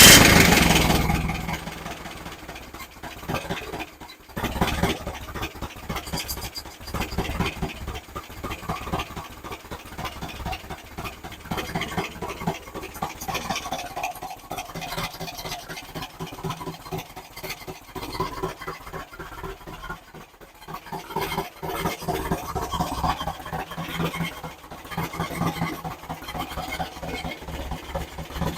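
Engine running during its camshaft break-in, a steady fast stream of firing pulses. It is loudest at the very start and eases over the first two seconds, with brief drops in level around four seconds and again around twenty seconds in.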